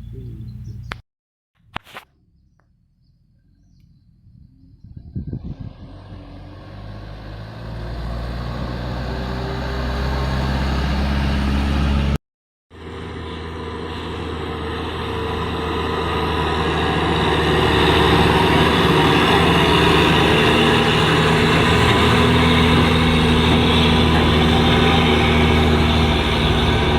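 A vehicle engine pulling up a steep hill under load. It builds from quiet to loud over several seconds, drops out briefly about halfway through, then comes back louder and holds a steady pitch.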